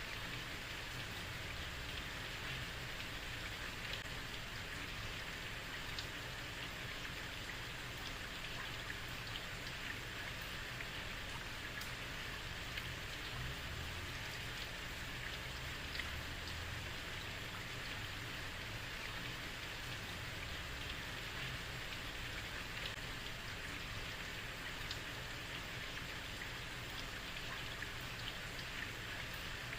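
Heavy rain falling steadily on a street, a constant hiss with scattered sharper drop ticks.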